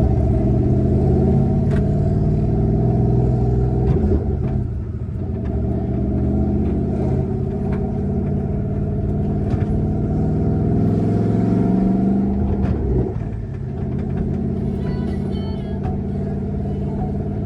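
Twin-turbocharged 5.0 Coyote V8 of a 2014 Mustang GT running as the car drives. Its pitch climbs slowly and then drops sharply about four seconds in and again near thirteen seconds.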